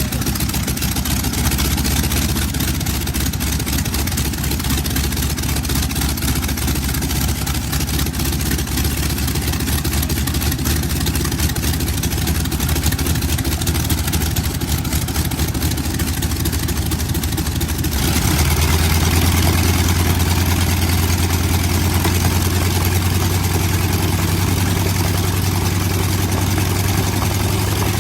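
Pratt & Whitney R-985 nine-cylinder radial aircraft engine running steadily. About eighteen seconds in, the sound changes abruptly to a deeper, louder run.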